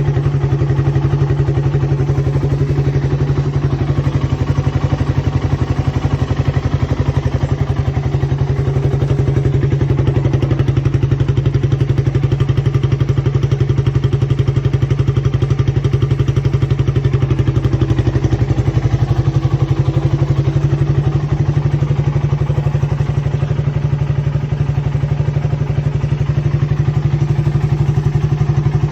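Suzuki Raider 150 carburetted motorcycle's stock single-cylinder four-stroke engine idling steadily, at an even pitch with no revving.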